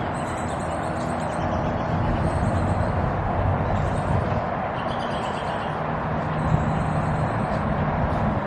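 Steady rumble of road traffic, with small birds chirping faintly over it.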